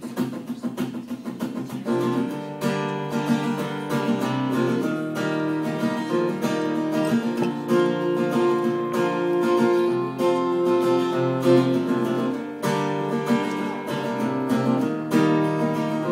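Acoustic guitar playing a song's intro, light picked notes at first, then steady strummed chords from about two seconds in.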